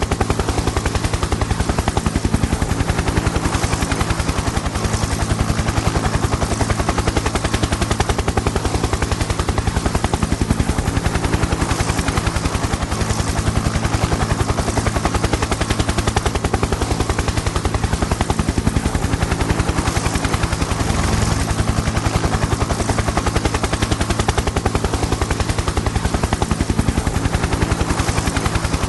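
Helicopter in flight: a fast, steady chopping of the rotor blades over a steady engine and turbine hum.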